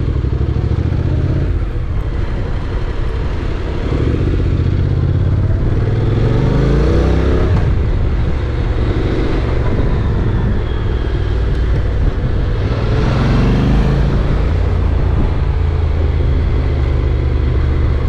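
Honda NC750X's parallel-twin engine running under way with a steady low rumble, rising in pitch twice as it accelerates: once about a third of the way in and again a little past two-thirds.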